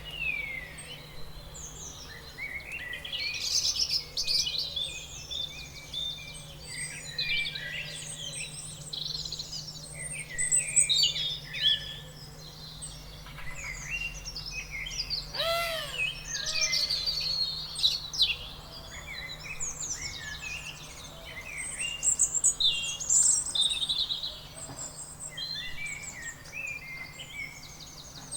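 Several songbirds singing and chirping at once, their quick, overlapping calls going on without a break, with a louder run of arching notes about halfway through.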